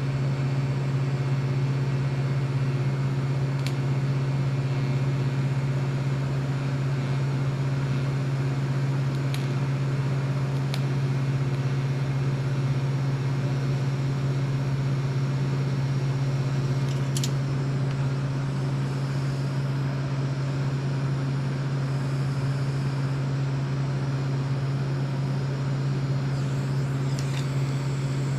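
Steady, unchanging mechanical hum with a low tone, with a few faint light clicks or taps scattered through it.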